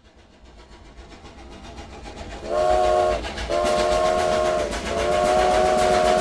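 Train sound effect: rhythmic chugging that grows steadily louder, then a chord train whistle blown three times, one short blast followed by two long ones.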